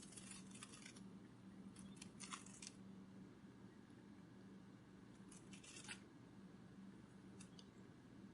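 Faint butterfly-wing flutter sound effect: short bursts of crisp, papery rustling in four separate clusters, over a steady low hum.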